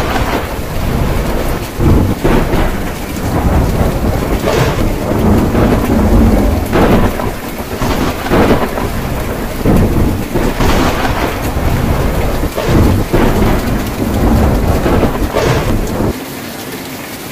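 Heavy rain on a tin roof with a thunderstorm: thunder cracks and rumbles in loud peaks every second or two over the steady rain. Near the end the thunder stops abruptly, leaving only a quieter, even rain hiss.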